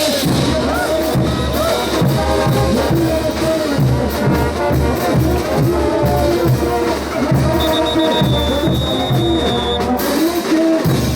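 Bolivian brass band playing ch'uta dance music: trumpets and trombones carry the tune over a steady low beat.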